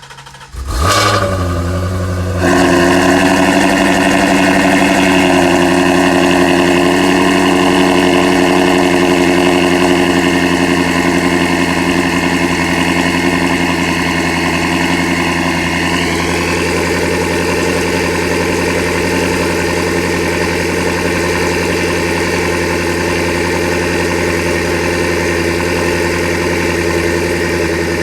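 Twin-turbo Shelby GT350R's 5.2-litre flat-plane-crank V8 on a cold start: it fires about a second in, steps up louder a moment later, then holds a loud, steady high idle. The idle shifts slightly in pitch about halfway through.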